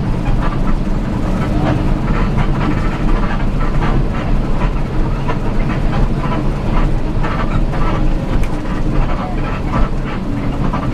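Vehicle on the move: a steady low engine and road rumble with continuous rattling clatter.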